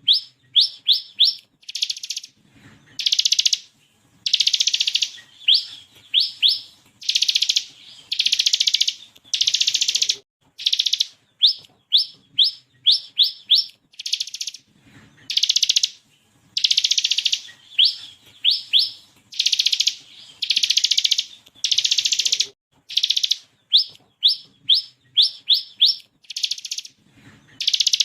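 Bar-winged prinia (ciblek kristal) singing in its competition 'gacor' style: short, dense, buzzy rattles ('ngebren') of about half a second to a second alternate with quick runs of three to five sharp rising notes ('tembakan').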